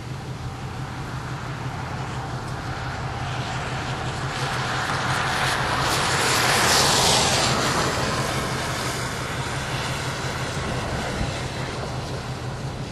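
A vehicle passes on the road, its noise swelling to a peak a little past halfway and then fading, over a steady low engine hum.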